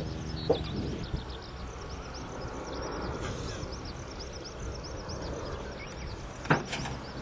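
Small birds chirping repeatedly, with a sharp knock about half a second in and a louder knock about six and a half seconds in.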